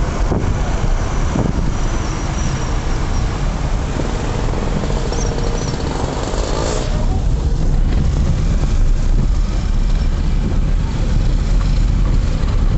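Steady running noise of a motor vehicle, with a constant low rumble.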